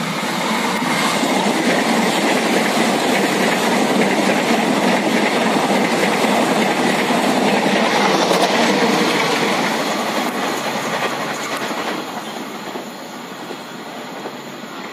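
Passenger train coaches passing close by: steady rattle and rumble of steel wheels on the rails. It builds over the first few seconds and eases off over the last few.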